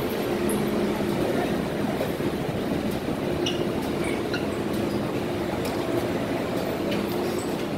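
MTR M-Train electric multiple unit running between stations, with a steady rumble of wheels on rail. A low traction-motor hum comes and goes over it, with a few faint clicks.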